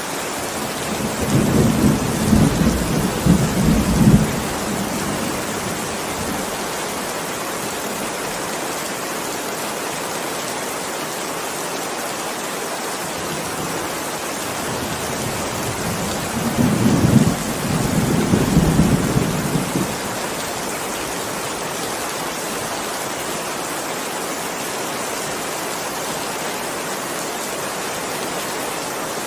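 Steady heavy rain falling, with two low rolls of thunder rumbling over it: one starting about a second in and lasting a few seconds, another just past the middle.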